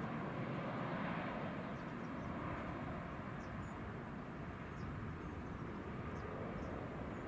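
Distant jet airliner's engines, a steady rumble slowly fading away, with faint high chirps over it.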